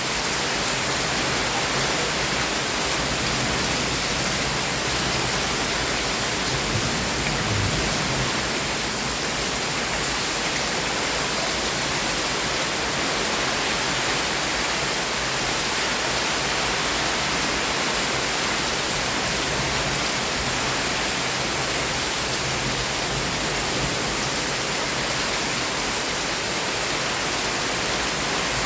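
Heavy downpour of rain: a dense, steady rush with no breaks.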